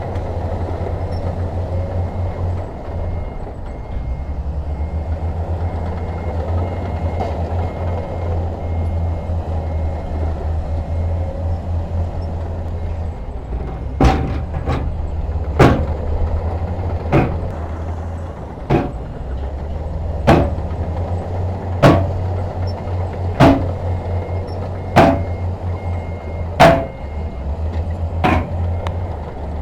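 Heavy diesel earthmoving machinery running with a steady low rumble. From about halfway in, a sharp metallic clank repeats evenly about every one and a half seconds.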